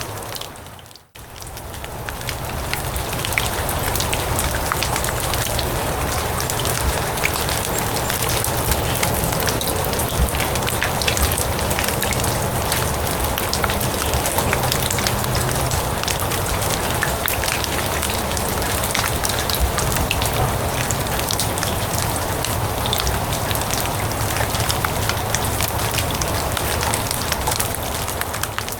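Steady rain falling on grass and leaves: an even hiss with a dense patter of small drops. About a second in it fades briefly to almost nothing, then swells back up over a couple of seconds.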